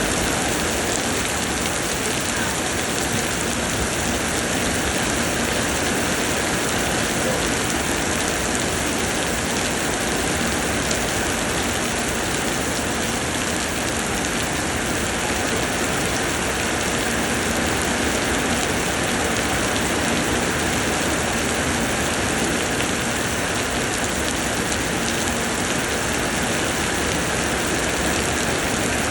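Steady summer downpour: rain pouring down in an even, unbroken hiss.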